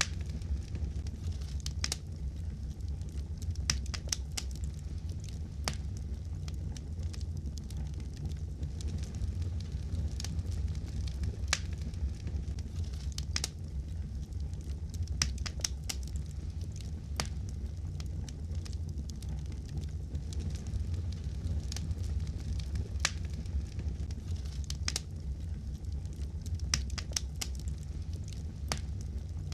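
Wood fire crackling in a fireplace: irregular sharp pops and crackles over a steady low rumble of the flames.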